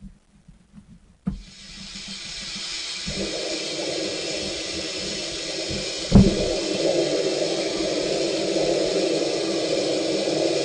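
Mark VII Aqua Jet GT 700 car wash water jets switching on with a sudden, steady spray hiss that swells over the first seconds. A lower steady drone joins about two seconds later. A single loud thump about six seconds in.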